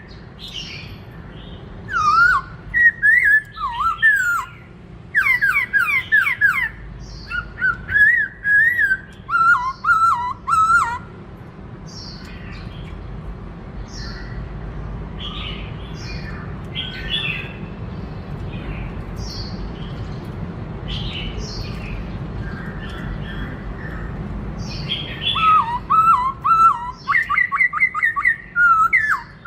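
Black-throated laughingthrush (khướu bạc má) singing: loud runs of fast, swooping whistled phrases, with a quieter middle stretch of short, high scattered notes. A low steady hum lies underneath.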